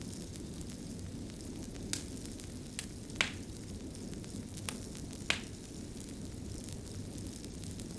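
Fire crackling: a steady low rumble of burning broken by sharp, irregular pops, about five or six of them, the loudest a little past three seconds and five seconds in.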